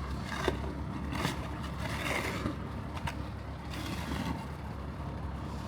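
Steady low rumble of city road traffic, with swells of hiss and scraping every second or two.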